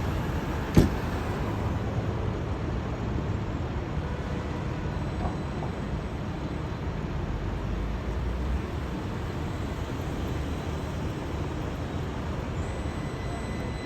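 Steady low rumble of vehicle noise, with one sharp knock about a second in.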